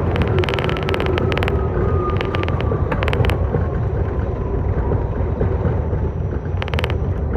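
R68 subway train running, heard from on board: a steady low rumble with several clusters of rapid clicks, and a faint whine that slowly falls in pitch.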